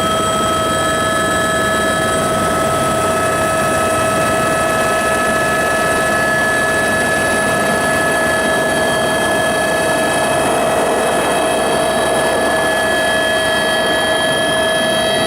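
Helicopter in flight, heard from inside the cabin: a loud, steady drone of turbine and rotor with several steady high-pitched whining tones over it.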